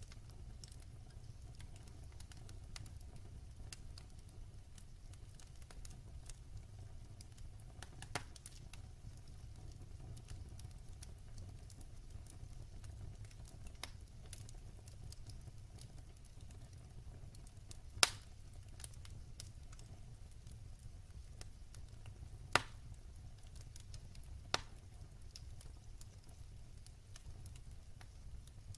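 Wood fire burning in a fireplace: a steady low rumble of the flames with faint scattered crackles and a few sharp pops of the burning logs, the loudest about two-thirds of the way through.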